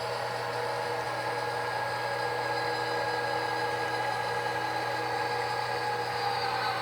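An HO scale model diesel locomotive's sound decoder plays a steady diesel engine sound through its small speaker as the locomotive creeps toward a car to couple. The sound holds several steady tones.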